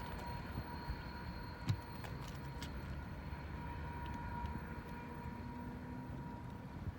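Loaded coal train rolling along the track: a steady low rumble with faint steady high-pitched tones over it and a few light clicks, the sharpest about a second and a half in.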